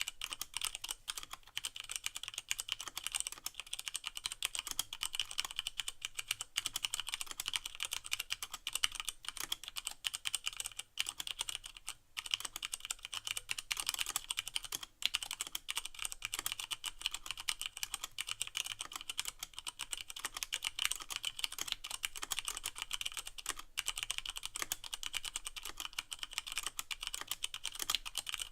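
Fast, continuous typing on a Leopold FC660M mechanical keyboard with Cherry MX Brown switches and no O-rings: a dense run of key clacks, with the keycaps bottoming out on the plate. A few short pauses come around the middle.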